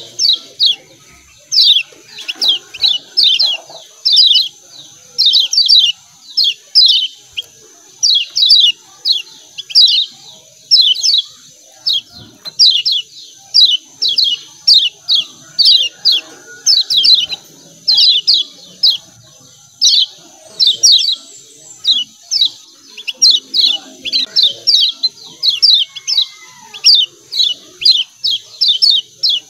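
Kecial kuning (yellow white-eye) giving rapid 'ciak ciak' calls: short falling chips in quick clusters of two to four, about one cluster a second, over a steady high whine.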